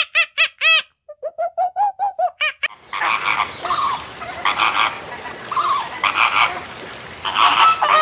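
A young macaque giving a fast run of short squeaky calls, about five a second, that stops about two and a half seconds in. Then a flock of flamingos honking and calling together, with several loud clusters of honks.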